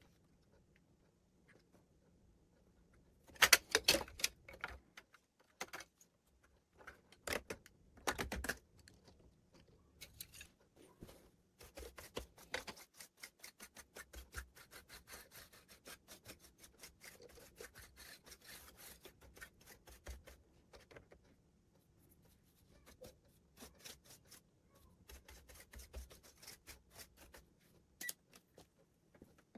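Small clicks, rubs and scrapes of hands handling the opened keyboard's parts, louder in two short clusters about three and a half and seven seconds in, then softer scattered clicking.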